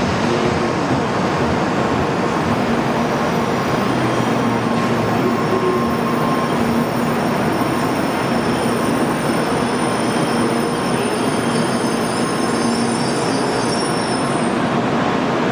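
A Shinkansen bullet train moving through the station, a steady rushing noise with high electric whining tones that die away about fourteen seconds in as it comes to a stop.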